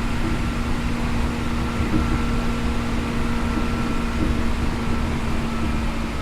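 Seibu New 2000 series electric train running, heard from inside the car: a steady rumble with a constant low hum and a fainter higher tone.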